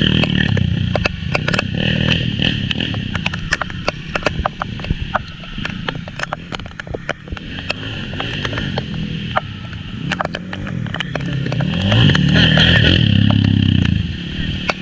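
Small underbone motorcycle engine revving up and down as it is ridden around a dirt track, rising to its loudest about twelve seconds in, with many sharp ticks over it.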